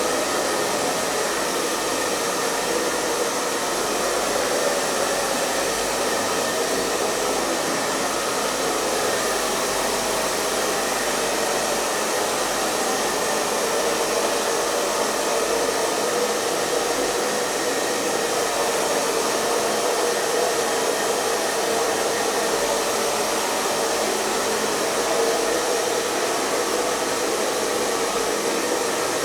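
Hair dryer running steadily on one setting, a continuous even rush of blown air over a motor hum, with no change in speed.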